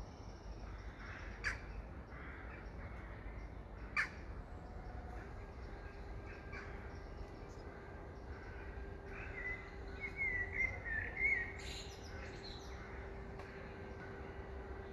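Woodland birds calling and singing: two sharp short calls in the first few seconds and a quick warbling song phrase around the middle. Under them runs a faint steady hum and a low rumble of background noise.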